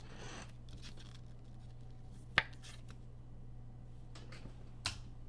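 Trading cards being handled and slid against each other: a soft swish near the start, then two short sharp clicks, about two and a half and five seconds in, over a steady low hum.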